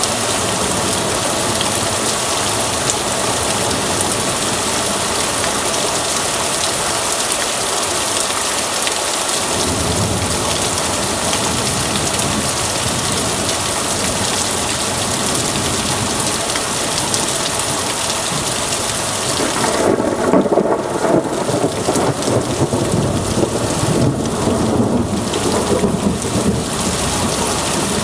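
Heavy rain pouring steadily in a thunderstorm downpour. About a third of the way in a low thunder rumble comes in, and about two-thirds of the way through it swells into a louder rolling peal of thunder that lasts several seconds.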